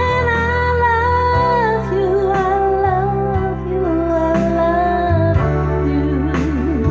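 A woman singing a slow song in long held notes with vibrato, over a steady instrumental accompaniment.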